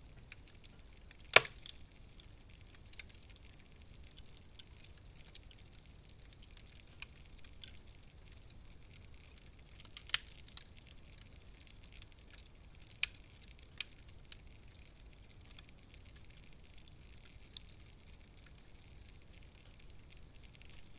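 Wood fire in a fireplace crackling: irregular sharp pops and snaps over a faint steady hiss, the loudest pop about a second and a half in.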